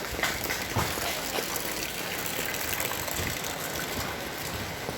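Heavy rain falling with water gushing and running, a steady rushing hiss, with a few light knocks in the first second or so.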